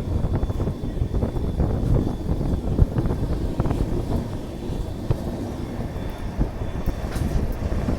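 Express train running, heard from a passenger coach: a steady low rumble of the wheels on the rails, with irregular knocks and clatter throughout.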